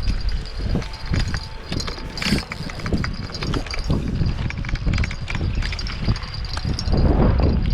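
Footsteps on a wet tidal flat: a steady walking rhythm of low thuds, with wind rumbling on the microphone.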